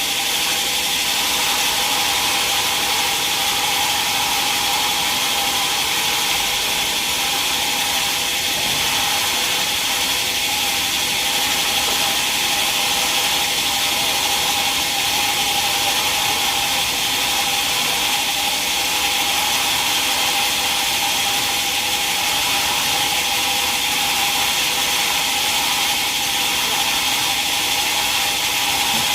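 Sawmill saw cutting a mahogany log, running steadily with an unbroken hiss and a steady hum.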